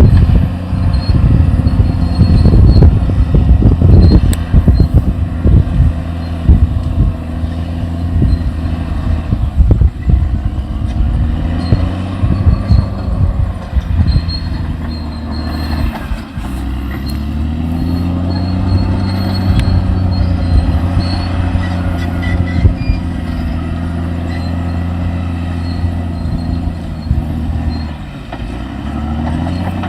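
Caterpillar D6R XL bulldozer's diesel engine working under load, its pitch rising and falling several times as the machine pushes. A run of clanks and knocks from the tracks and blade comes in the first few seconds.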